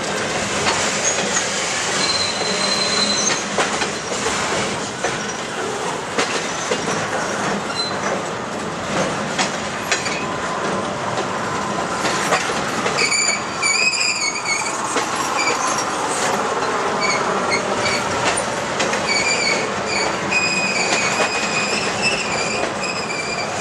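Circus train's railroad cars rolling slowly past on the rails, with a steady rumble of wheels and scattered clicks over the rail joints. High-pitched wheel squeal comes in about halfway through and again near the end.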